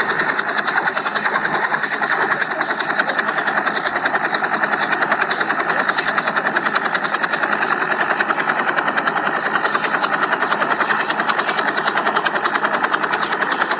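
Small electric motor and rotor blades of a toy radio-controlled helicopter running steadily, a high buzz with a rapid flutter.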